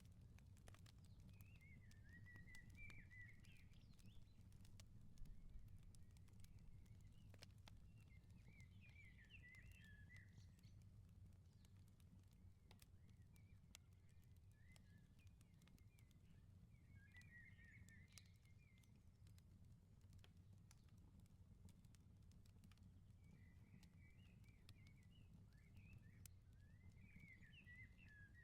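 Faint crackling of a wood fire in a firepit, with scattered sharp pops over a low steady rumble. A bird chirps in short twittering phrases every several seconds.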